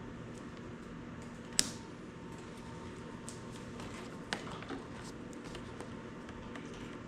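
Flush cutters snipping off a zip-tie tail with one sharp snap, followed later by a quieter click and light tool handling, over a steady low hum.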